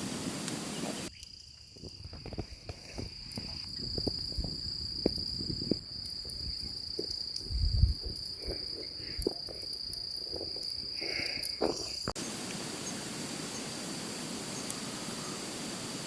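Insects, likely crickets, trilling steadily at one high pitch in the forest at dusk, with scattered knocks and rustles and one heavy low thump about eight seconds in. Before and after the trilling there is a steady hiss, and both switches are sudden.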